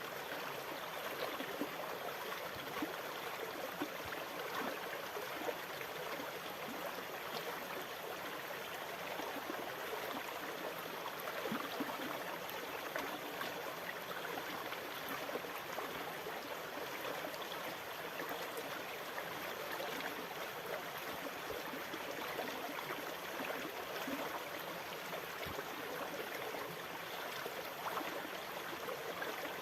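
Steady rushing water with small splashes and trickles, holding an even level without the rise and fall of breaking waves.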